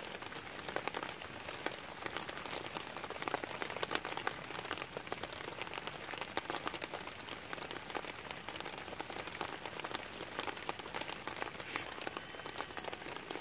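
Rain pattering steadily on a camping tarp overhead, a dense run of light ticks.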